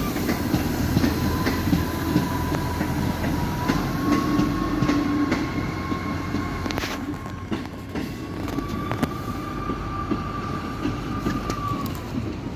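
East Midlands Railway Class 156 and Class 158 diesel multiple unit pulling away on the rails, with a steady rumble, scattered clicks from the wheels over the track and a thin high whine that steps up slightly in pitch twice. A sharp click comes near the end.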